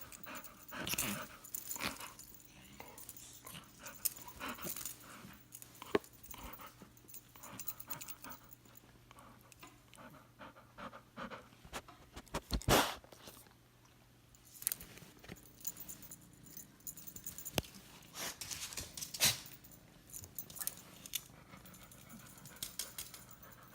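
Golden retriever panting heavily with quick, uneven breaths. A sharp, louder sound comes about halfway through, and another a few seconds later.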